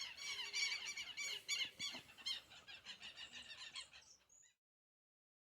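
Birdsong: many quick high chirps, several a second, fading out and stopping dead about four and a half seconds in.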